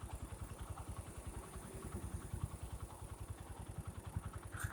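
Vehicle engine idling, a fast, even low pulsing with no change in speed.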